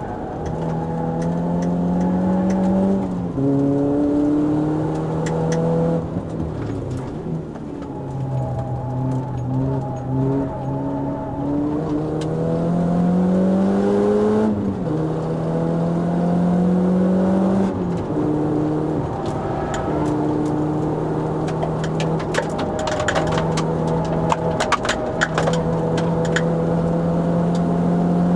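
Renault Clio RS's 2.0-litre four-cylinder engine heard from inside the cabin at track pace. Its pitch climbs with the revs and drops sharply at each gear change several times, with stretches held steady. A flurry of sharp clicks comes in the later part.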